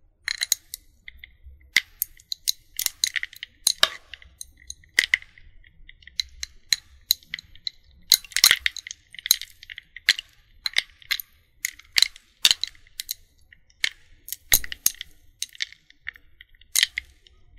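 Ice cubes clinking and cracking: sharp, irregular ticks and clinks, some in quick clusters, with a slight glassy ring.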